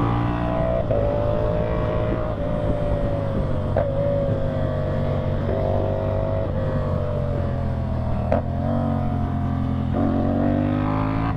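CFMOTO 450SR parallel-twin motorcycle engine running through a slip-on exhaust while riding, its note holding fairly steady. It breaks sharply twice, about four and eight seconds in, typical of quickshifter gear changes, and climbs in pitch after the second break.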